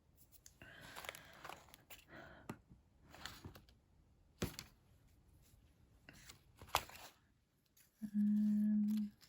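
Crinkling and rustling with sharp little clicks as a sheet of adhesive gem embellishments is handled and gems are peeled off it. Near the end a steady low tone lasts about a second, the loudest sound.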